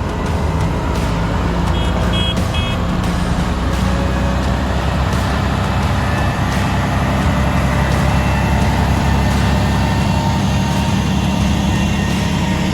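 Dump truck's diesel engine running steadily under load, with three short reversing beeps about two seconds in.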